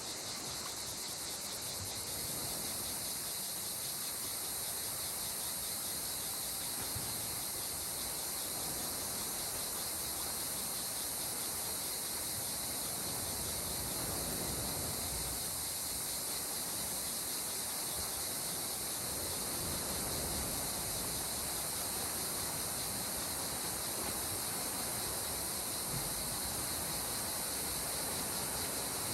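Steady high-pitched insect chirring over a soft, continuous wash of calm sea water.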